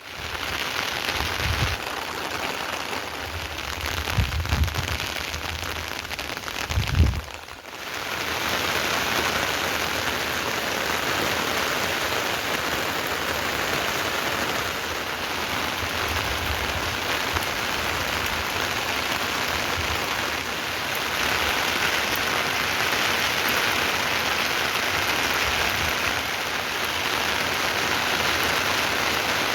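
Heavy rain falling steadily, a dense even hiss of rain. Several low thumps sound in the first seven seconds, and the rain briefly drops out just before the eight-second mark before resuming.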